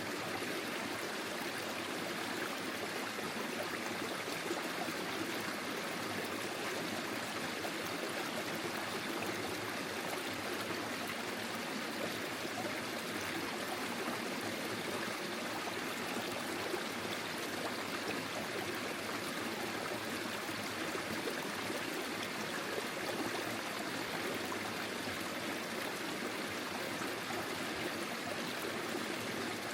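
Forest stream flowing steadily over its bed, a continuous rushing and gurgling of water.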